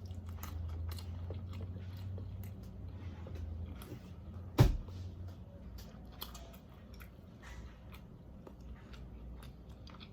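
Close-miked mouth sounds of a person biting and chewing a sauced chicken wing: scattered wet clicks and smacks, with one sharper, louder smack about halfway through.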